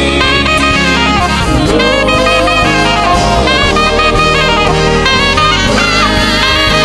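Live gospel band playing an instrumental passage led by a saxophone, with keyboard and drum kit behind it; the sax plays a running, sliding melody.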